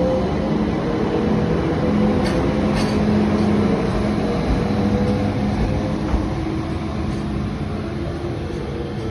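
Train running through the station: a steady rumble with a low, held electric hum, and a couple of faint clicks about two and three seconds in.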